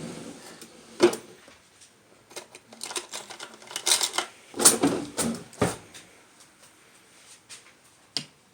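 Clinking and clattering of dishes and utensils while cat food is being prepared: a knock about a second in, a busy run of clicks and rattles in the middle, and a last sharp click near the end.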